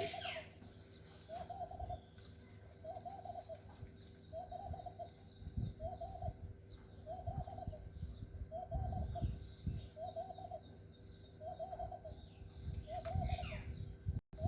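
A bird outside repeating a short, low, arched coo very evenly, about once every second and a bit, over a faint steady hum. A few dull low thumps come in between.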